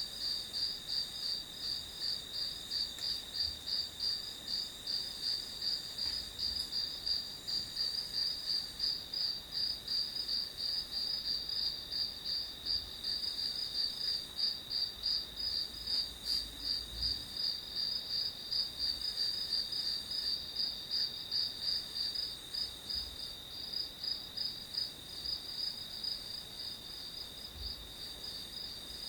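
Crickets chirping in an even, unbroken rhythm of high-pitched pulses, several a second.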